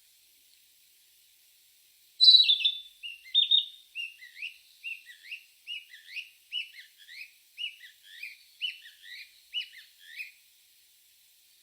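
A bird singing: a loud opening phrase about two seconds in, then a run of short high notes that rise and fall, about two to three a second, for some eight seconds.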